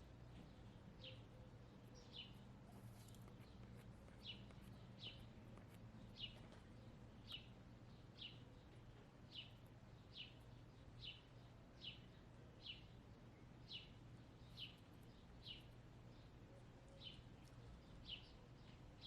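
A wild bird chirping over and over, faint: short, high chirps that slide downward, about one a second.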